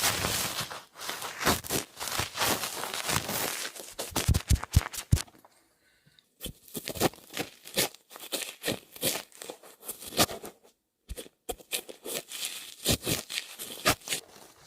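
Close-miked ASMR handling sounds: quick crinkling and scratching strokes in irregular bursts, pausing briefly twice.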